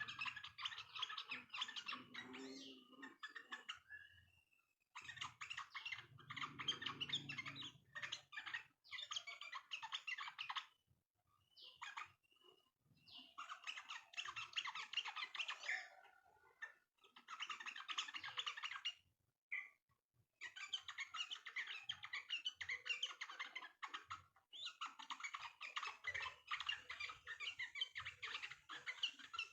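Yellow-vented bulbul (trucukan) chattering in fast, dense runs of chirps, in bursts of a few seconds with short pauses between them.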